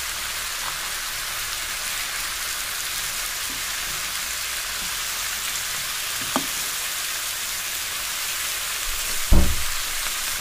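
Cubed brinjal (eggplant) sizzling in hot oil in a pan, a steady hiss. A small click about six seconds in, then a louder knock a little after nine seconds as a steel spoon hits the pan.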